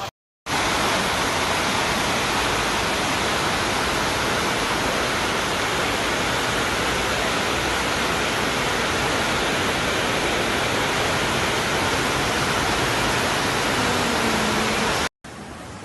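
Loud, steady rush of water, the sound of torrential rain or fast-flowing floodwater during a flash flood. It starts about half a second in and cuts off suddenly just before the end.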